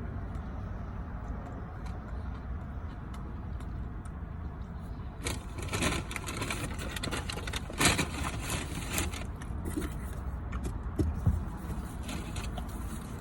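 Eating sounds and the rustling and crackling of handled food and wrapper, thickest from about five seconds in, over a steady low rumble.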